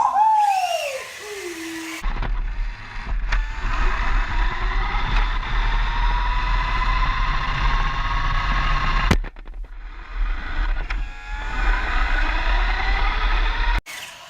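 Small electric motor and gears of a toy RC car whining, the pitch slowly rising and falling with speed, over a heavy low rumble from the car's vibration. It comes after a short falling whine in the first two seconds, and the sound breaks off sharply about nine seconds in and again near the end.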